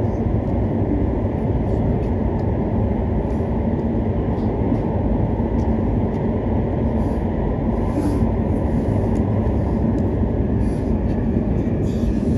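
Hokuriku Shinkansen train running at steady speed, heard inside the passenger cabin: an even low rumble of running noise with faint light ticks and rattles over it.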